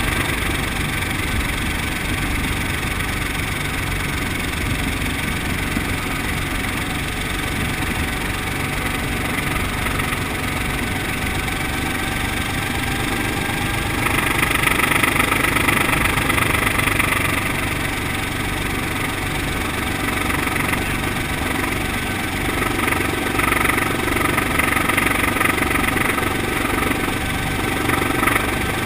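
Brantly B-2B helicopter's four-cylinder Lycoming piston engine and rotor running steadily, heard from the cabin. It gets louder and brighter for a few seconds about halfway through and again near the end.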